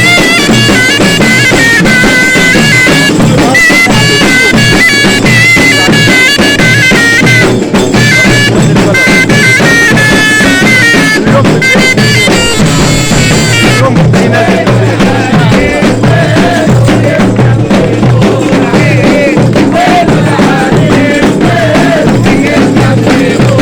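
Wedding zaffa troupe music: bagpipes playing a high melody over dense, steady drumming. About fourteen seconds in the bagpipe melody drops out, and the drumming carries on under a wavering lower melody.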